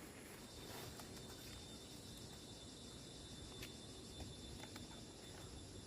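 Faint rural outdoor ambience with a steady high-pitched insect trill and a few light clicks.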